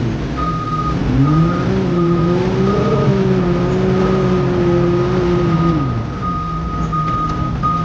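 Diesel engine of a heavy road-construction machine revving up about half a second in, holding, then dropping back near six seconds. A reversing alarm beeps repeatedly over it.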